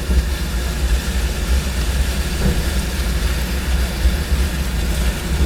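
Storm wind and rain coming in through an open car window: a steady deep rumble under a loud, even hiss.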